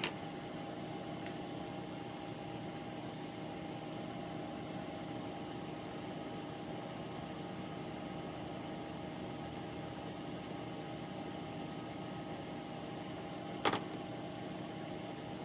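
Small electric bench fan, used to clear solder and flux fumes, running with a steady hum. A sharp click comes right at the start and another near the end.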